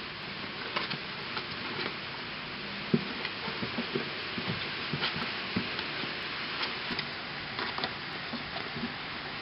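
Steady hiss of rain, with scattered light knocks and scuffs as kittens climb through and bump the cardboard boxes.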